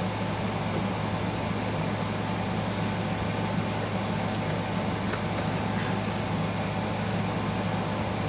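A steady mechanical hum with a hiss above it, unchanging throughout, like a room fan or air conditioner running.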